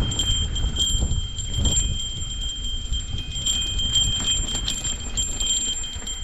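A small bell ringing on and on with a bright, high, slightly pulsing tone, over a low rumble on the microphone and scattered clicks.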